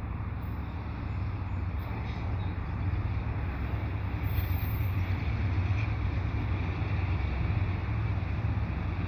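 GE AC4400CW diesel freight locomotives pulling a train out of the yard: a steady low engine drone over the rumble of the moving train, a little louder from about three seconds in.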